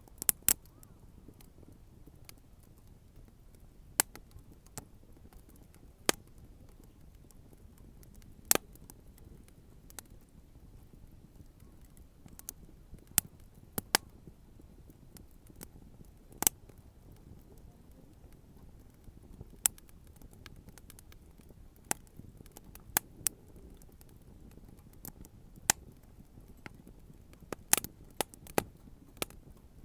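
Wood bonfire crackling, with sharp irregular pops every second or two, some in quick clusters, over a faint low rumble.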